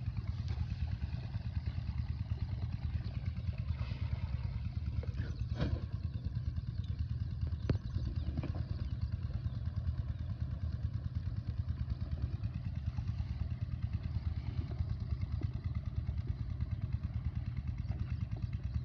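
Single-cylinder 8 HP diesel pumpset engine running steadily at a constant speed, an even low thudding, with a couple of brief sharp knocks near the middle.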